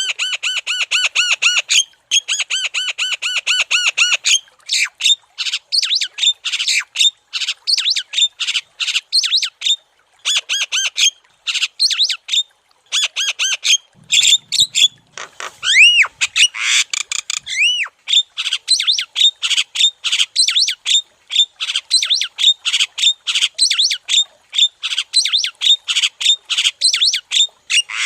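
Javan myna (jalak kebo) calling in long runs of rapid harsh squawks, several a second, broken by short pauses, with a few arching whistled notes mixed in around the middle.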